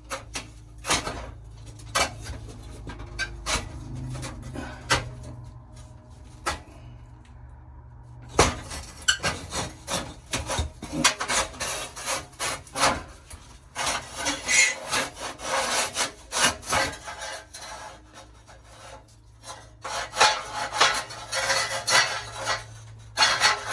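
Hand scraping and rubbing on a dirty metal part from a gas water heater's burner assembly, with scattered clicks and knocks as the part is handled and cleaned. The scraping becomes busier about eight seconds in, eases briefly, then picks up again near the end.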